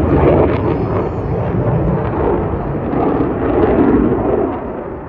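Military jet passing low and fast: a loud, sustained jet engine noise that wavers in strength and eases off near the end.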